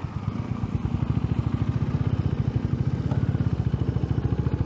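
Honda H'ness CB350's single-cylinder engine running at a steady cruising speed, its exhaust beats coming in an even, rapid pulse.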